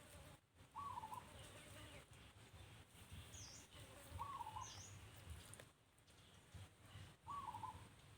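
Faint bird calls: a short wavering call repeated three times, about three seconds apart, with two brief high chirps in between over a low background rumble.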